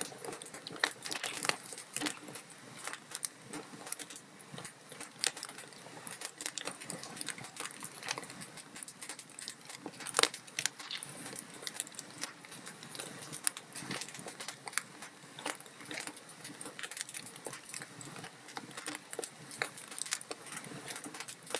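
Wood log fire crackling in a fireplace: a dense, irregular stream of small crackles and sharper pops over a soft hiss, with the loudest pop about ten seconds in.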